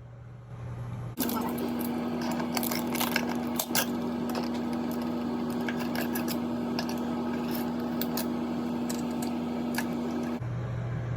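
Metal snips clicking and scraping inside a plastic shower head as the flow restrictor is pried and cut out, many sharp clicks over a steady low hum, starting and stopping abruptly.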